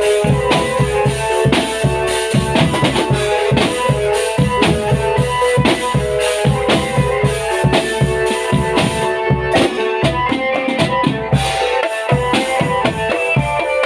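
Marching drum band playing: a dense, fast rhythm of bass drum booms and snare strokes under a melody of held notes. In the second half the high cymbal-like hiss drops away for a couple of seconds while the drums carry on.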